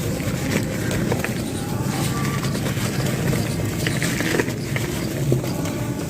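Chunks of pure cement being crushed and crumbled, a dense run of irregular small crunches and crackles over a continuous gritty rustle.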